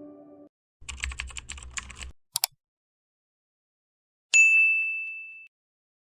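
Music fades out, then a quick run of typing clicks over a low hum, a sharp double click, and a single bell-like ding that rings for about a second before fading.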